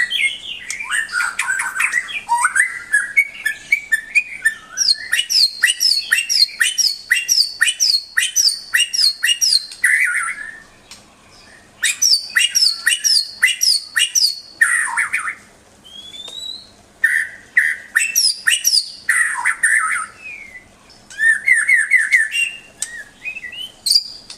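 White-rumped shama (murai batu) singing: loud, varied phrases, including runs of quick repeated down-slurred whistled notes, with a brief lull a little before the middle.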